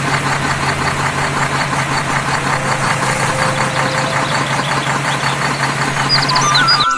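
Tractor engine running steadily with a fast, even chugging. Bird chirps come in near the end.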